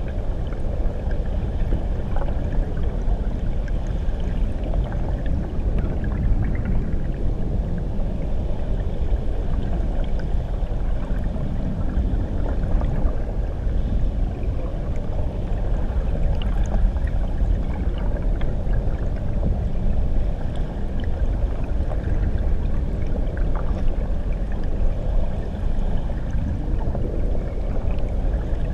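Waterfall heard from underwater: a steady, muffled low rumble of churning water, with faint scattered ticks and bubbling higher up.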